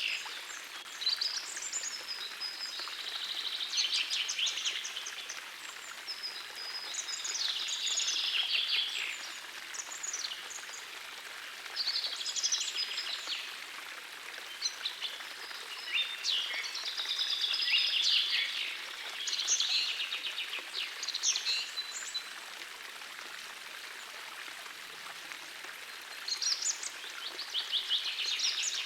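Small forest stream flowing with a steady hiss, while birds sing short, rapid trilling phrases above it every couple of seconds.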